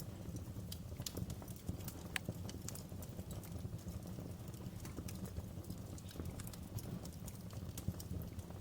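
Wood fire in a fireplace crackling, with irregular sharp pops and snaps scattered over a steady low rumble of the flames.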